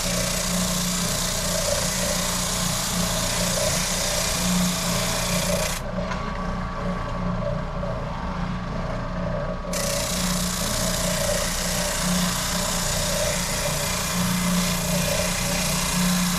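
A power sander runs steadily while the edge of a wooden guitar body is sanded to take out waves and lumps. The rasping of wood on the abrasive lasts about six seconds, stops while the motor keeps running, then starts again about ten seconds in.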